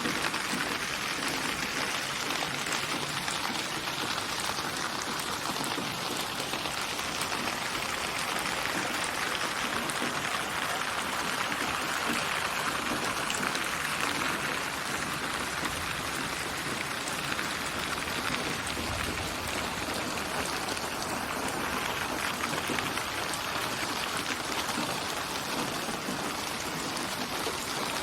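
Steady rain falling on a surface, a dense even patter of drops with no pitched tones.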